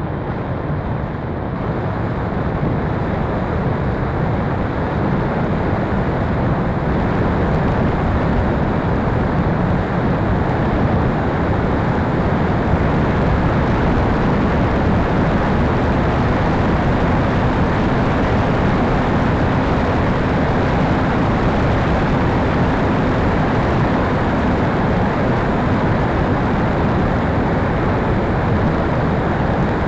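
Steady rushing of wind and airflow on the microphone, deep and unbroken, with a faint steady hum coming in about halfway through.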